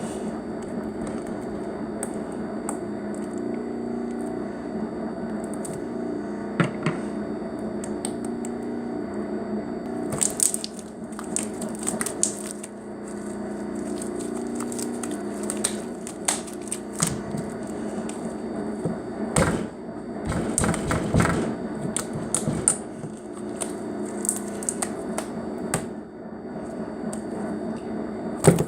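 Slime being squished and poked by hand, making crackling, popping clicks in two spells, over a steady background hum.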